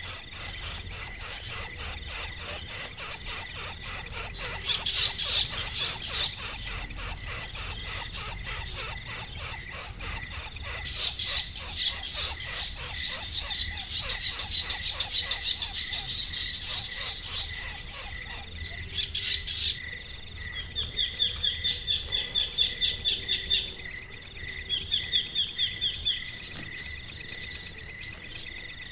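Crickets chirping steadily in a high, even pulse of about three chirps a second. Twice near the end a bird adds a short run of quick chirps.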